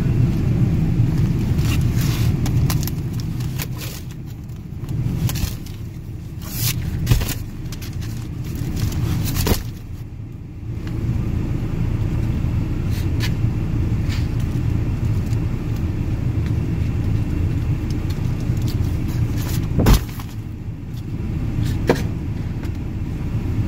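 Car's engine and road noise heard from inside the cab while driving, a steady low rumble that eases off briefly a few times. Several sharp knocks or clunks cut through it, the loudest about seven and twenty seconds in.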